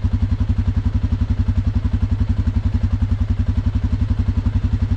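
Single-cylinder four-stroke ATV engine idling steadily, an even rapid low putter with no revving.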